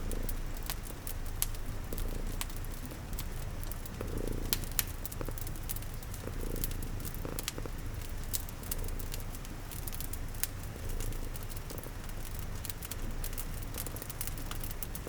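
Domestic cat purring steadily and low, layered with a wood fire's crackling, which makes frequent sharp pops and snaps, over the steady patter of rain.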